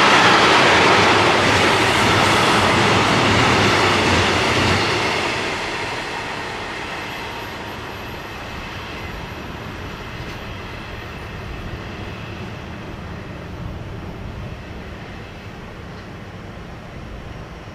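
A train passing on the rail line, with wheels running on the rails. It is loud for about the first five seconds, then fades away steadily as the train moves off.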